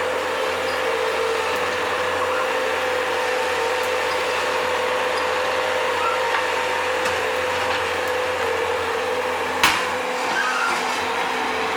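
Bobcat skid steer running steadily, its engine and hydraulics giving a constant drone with a held hum. A single sharp knock comes near the end.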